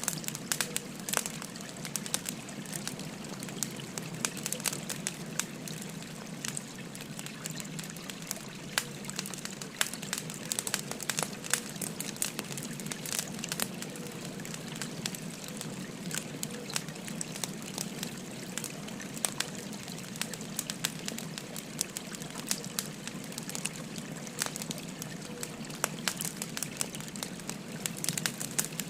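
Burning firewood crackling with irregular sharp pops over the steady babbling of a flowing stream.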